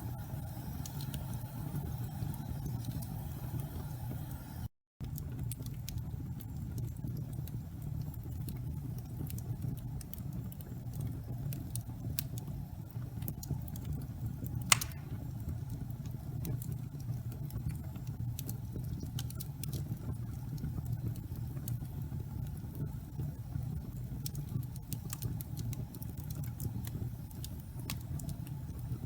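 Wood fire burning slowly in a fireplace: a steady low rumble with scattered light crackles and one louder pop about halfway through. The sound cuts out for a moment about five seconds in.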